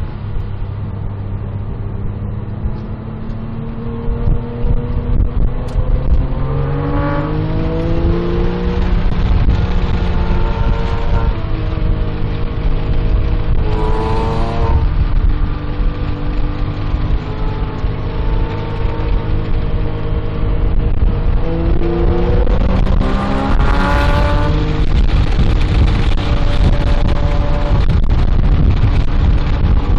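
Porsche 997.1 GT3's 3.6-litre flat-six heard from inside the cabin at racing speed, rising in pitch under hard acceleration several times and falling away between, over a heavy steady rumble of road and wind noise.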